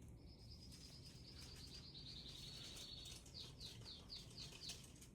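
Faint Indian ringneck parrot whistle: one thin high note held for about three seconds and slowly falling, then a quick run of about six short descending chirps.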